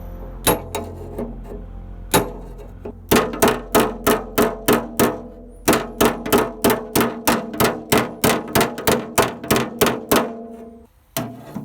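Hammer blows on sheet steel, struck in a steady rhythm of about three a second, each with a brief metallic ring. There is a short pause about five seconds in, and the hammering stops shortly before the end.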